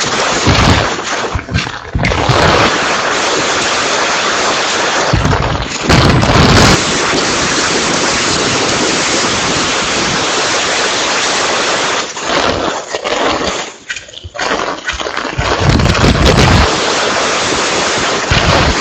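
Typhoon wind and heavy rain: a dense, loud hiss of rain with gusts buffeting the microphone as deep rumbles several times. The noise dips briefly about two-thirds of the way through.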